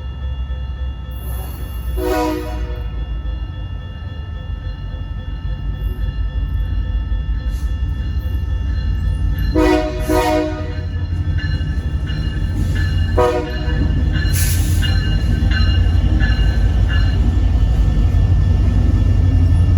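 Diesel freight locomotive air horn sounding several blasts for a grade crossing, one longer blast in the middle and a short one after it. The low rumble of the locomotive's engines and the train grows louder as it approaches.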